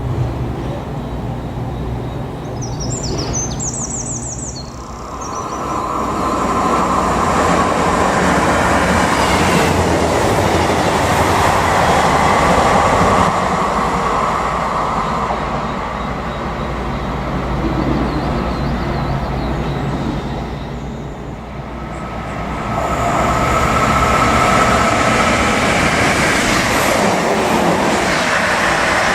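Train running past on the rails: a low engine hum gives way about five seconds in to a loud rush of wheel-on-rail noise with a steady ringing tone in it. The rush dips near the end, then swells again.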